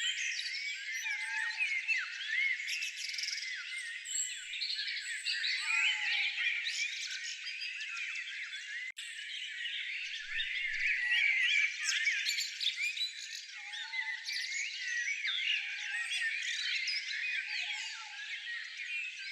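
Dense chorus of many small songbirds chirping and twittering over one another, with a short lower call coming in every few seconds. There is a brief break about nine seconds in.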